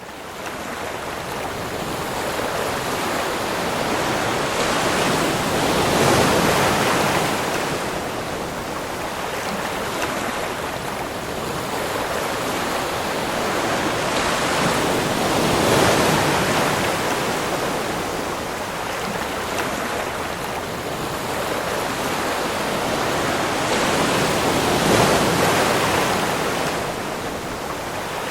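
Ocean waves: a steady rush of surf that swells to a louder peak about every ten seconds, three times, then eases back.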